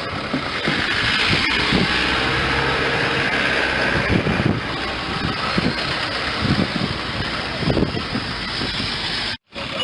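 A bulldozer's engine running steadily, with a brief sudden dropout near the end.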